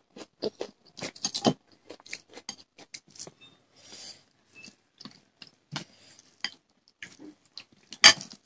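Close-up eating sounds: irregular chewing and wet mouth smacks, with short clicks as rice and curry are eaten by hand. A sharper, louder click comes near the end.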